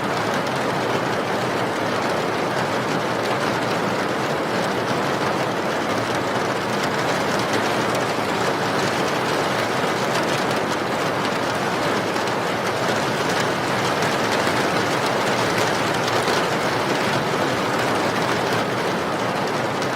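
Steady, heavy rain falling without let-up: a dense, even hiss with fine pattering drops.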